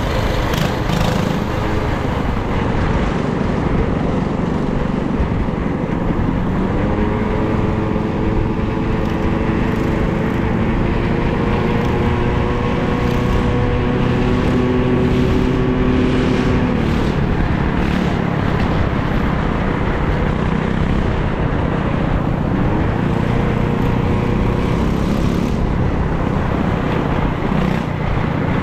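Motor vehicle driving, with steady engine and road noise. The engine note climbs about seven seconds in and holds steady until about seventeen seconds in, then fades back into the road noise.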